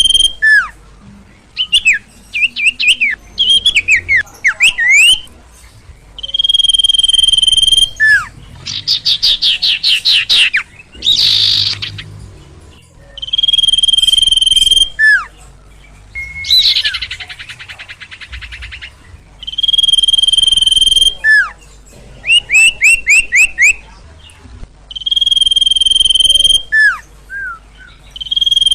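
A bird known in Indonesia as sirtu or sirpo calling loudly and energetically. It repeats a long steady whistle about every six seconds, each ending in a short falling note, and between the whistles it gives fast trills and quick runs of downward-slurred notes.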